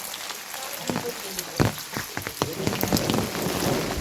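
Heavy rain falling, with large drops striking nearby surfaces as irregular sharp taps and a steady hiss behind them.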